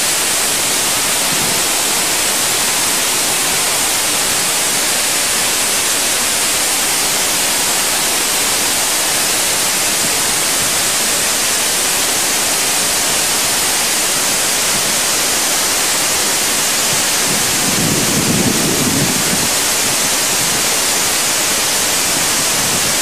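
Steady, loud rush of falling water, with a brief low sound about three quarters of the way through.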